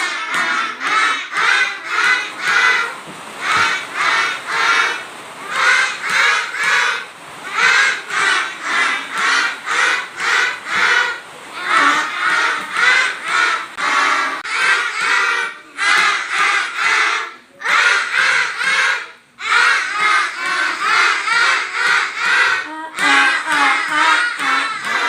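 A group of young children singing a phonics letter-sound song together, chanting in a steady rhythm in high voices with brief pauses between lines.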